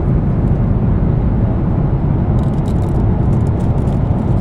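Airliner cabin noise in cruise aboard a Boeing 777-200ER: a loud, steady, deep rumble of engines and airflow past the fuselage. A few faint light clicks come through from about two seconds in.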